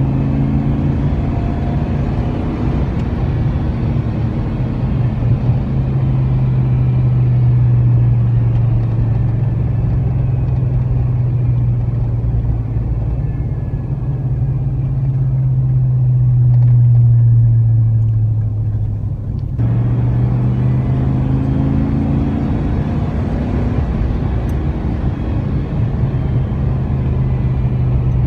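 1999 Chevrolet Silverado's 5.3L LM7 V8 through a Cherry Bomb straight-through muffler, heard from inside the cab while driving: a steady, loud low exhaust drone. The pitch sags slightly and the drone swells about two-thirds of the way through.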